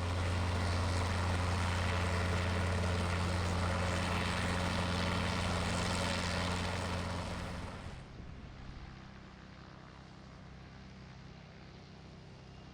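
Helicopter engine and rotor running steadily with a low hum, then suddenly much quieter and duller about eight seconds in.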